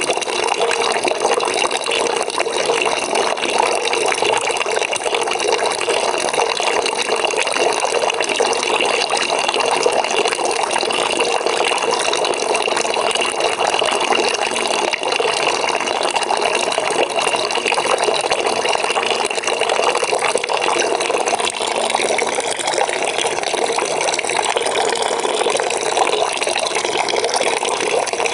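Water running steadily from a tap into a bucket, an even splashing rush with a faint steady ring above it.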